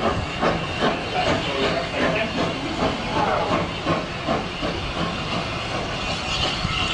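Steam locomotive hissing steam, with regular exhaust chuffs about twice a second in the first few seconds that then smooth out into a steady hiss.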